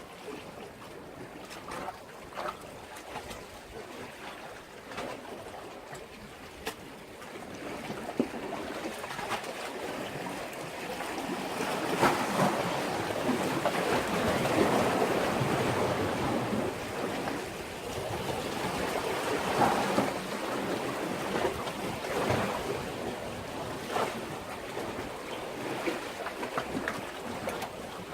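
Sea waves washing against a breakwater. They swell into a louder surge about twelve seconds in and again near twenty seconds, with short sharp ticks scattered throughout.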